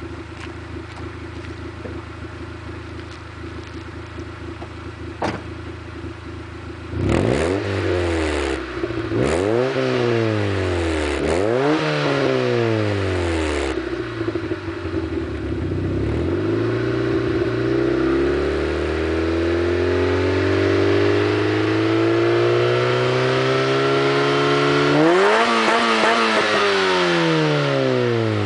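Honda Civic's D15B2 1.5-litre 16-valve four-cylinder through a Remus aftermarket exhaust, idling steadily, then revved in quick throttle blips about every two seconds. It then climbs slowly and is held at rising revs, before a sharp rev and drop back, with another blip at the end.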